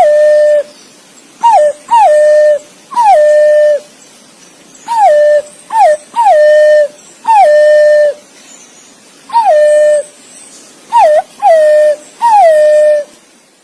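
Green pigeon calls: a run of clear whistled notes, each a quick flick in pitch that settles into a long, level whistle, some coming as a short note followed at once by a longer one, repeated about ten times with short pauses between.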